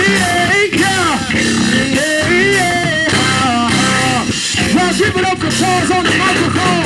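Live band playing loud funk music: a melodic lead line slides and bends in pitch over a steady bass and rhythm groove.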